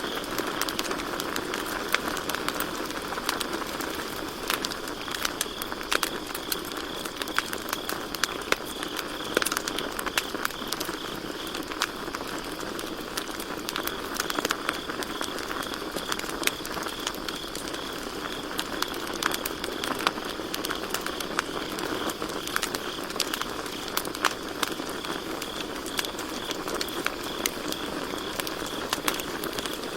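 Campfire burning with constant irregular crackles and pops from the wood, over a steady high cricket chirping that pulses evenly throughout.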